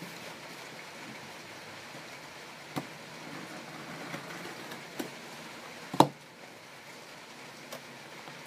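A few sharp clicks and knocks of small tools and materials being handled on a work surface, the loudest a knock about six seconds in, over a steady low hiss.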